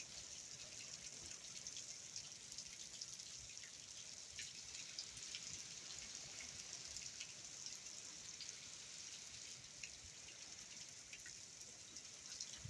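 Faint, steady hurricane rain falling, with scattered drips and drop strikes throughout.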